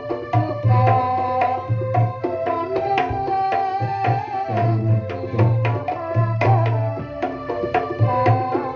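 Kendang hand drums played in pencak silat style: fast interlocking strokes with repeated deep bass hits. A held, sliding melody runs above the drumming.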